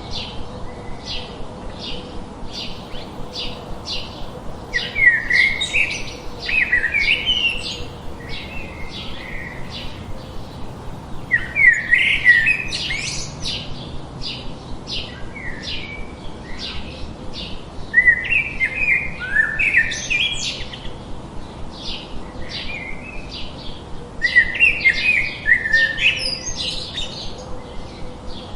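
Birds calling: a steady series of short, high chirps about three a second, broken roughly every six seconds by louder bursts of warbling song.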